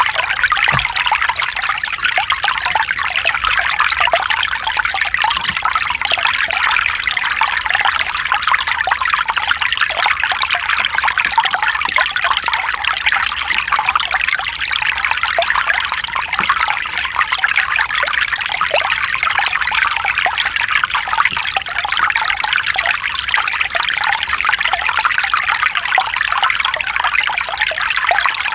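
Mountain stream running over rocks, a steady splashing trickle of water.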